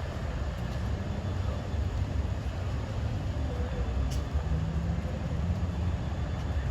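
The diesel engine of an LIRR DM30AC dual-mode locomotive running as a steady low rumble, with the general noise of the train at the station.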